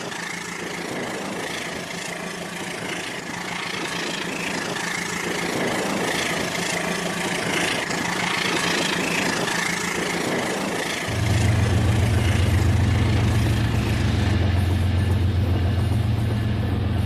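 Toy train running on its track: a steady whirring that slowly grows louder, joined about eleven seconds in by a sudden, steady low engine-like hum.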